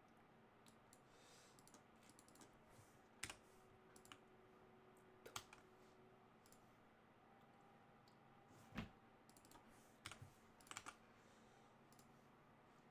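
Faint, scattered clicks of computer keys and a mouse, a single keystroke or click every second or two, over near-silent room tone.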